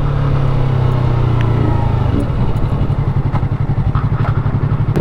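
Motorcycle engine, most likely the rider's Yamaha R3 parallel twin, slowing as the revs drop, then settling into an even idle about two seconds in.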